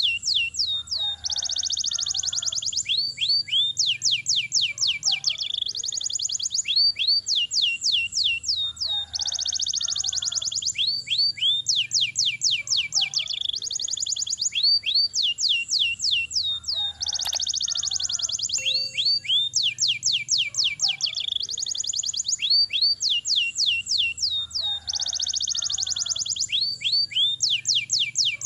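Domestic canary singing a long unbroken roll: fast high trills and quick rising and falling chirps, the same run of phrases coming round again about every eight seconds.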